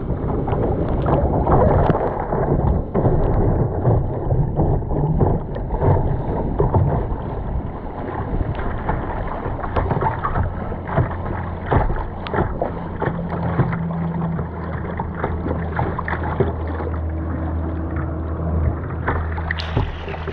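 River water rushing and splashing around a kayak, with frequent short splashes and knocks throughout.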